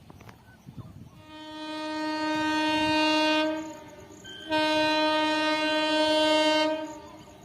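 Indian Railways locomotive horn sounding two long blasts with a short break between them. The first swells up gradually and the second starts suddenly.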